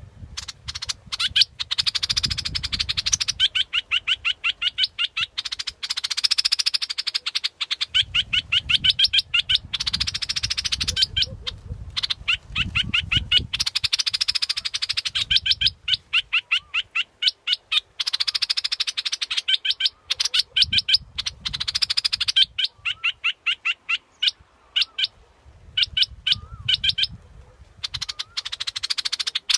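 Bulbul (the Thai 'dok taeng' bulbul) singing: fast runs of bright chirping notes in phrases of a few seconds with short pauses between them, recorded as a decoy call for luring birds. A low rumble comes and goes beneath the song.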